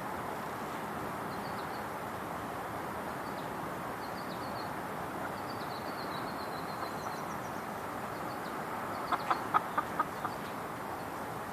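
Chickens clucking: a quick run of about six sharp clucks near the end, over a steady background hiss with faint high chirps.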